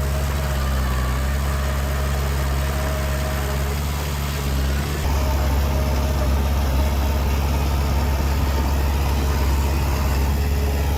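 Bulldozer's heavy diesel engine running steadily, growing louder about halfway through.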